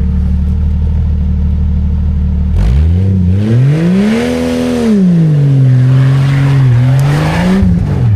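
Jeep Cherokee XJ engine idling, then revved hard for about five seconds as it tries to climb a muddy mound, the revs rising, dipping and rising again before dropping back to idle near the end.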